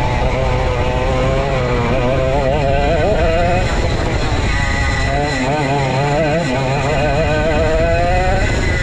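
Vintage go-kart's 135cc Sudam engine running at race speed, its revs climbing twice and easing off in between, over a heavy low rumble of wind.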